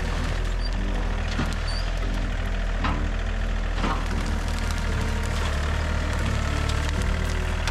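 John Deere 3320 compact tractor's diesel engine running steadily, with a few sharp cracks of wood snapping about 1.5, 3 and 4 seconds in.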